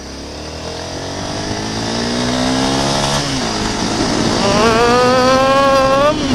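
Honda CB 250F Twister's single-cylinder engine pulling hard under acceleration. Its pitch climbs, drops at an upshift about three seconds in, climbs again and drops at another upshift near the end.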